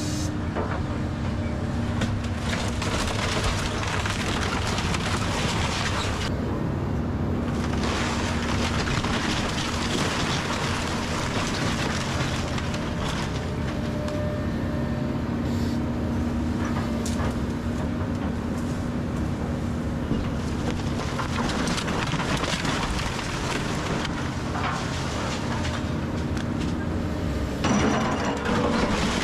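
Kobelco SK210 excavator's diesel engine running steadily under load while wood and debris crack and crunch as the house is torn down and crushed, with a louder crash near the end.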